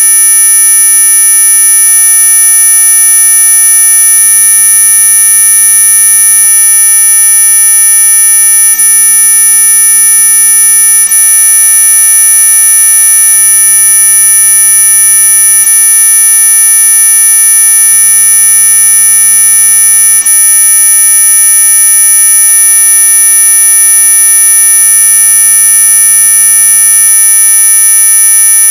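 Loud, steady electronic tones: several high-pitched pure tones held together without change, the highest and strongest near the top of hearing, played as a supposed ultrasonic mosquito repellent.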